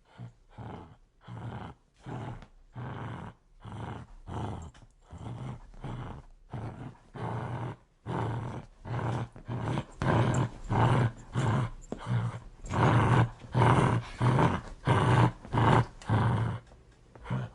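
Dog growling in a steady run of short pulses, about two a second. The growl gets louder about ten seconds in.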